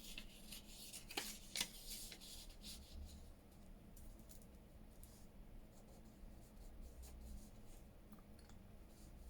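Faint handling of paper craft pieces: a couple of soft taps and rustles about a second in, then near silence with a low steady hum.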